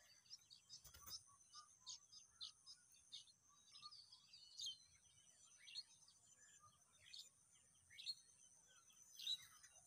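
Faint birds chirping, short calls every half second or so with a louder one near the end, over a steady high-pitched drone. A single soft knock about a second in.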